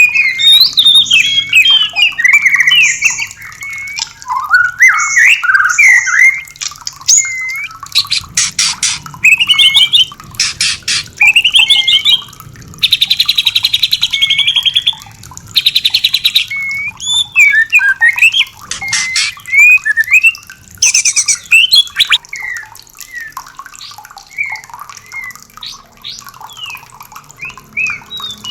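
White-rumped shamas singing: a fast run of varied clear whistles and warbles, broken in the middle by several harsh, rapid rattling bursts like the female's breeding-season 'kretekan' chatter.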